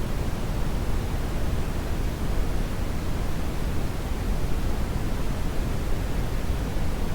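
Steady brown noise: an even, deep rushing hiss, strongest in the low end and falling off toward the highs, with no change.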